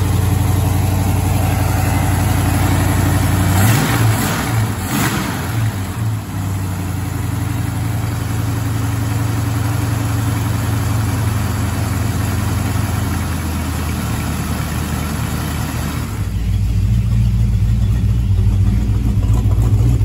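Freshly built Mopar small-block V8 idling after its first start, its engine speed wavering briefly a few seconds in as the carburetor is worked. Near the end the sound turns louder and deeper, heard from the tailpipes of the newly fitted exhaust.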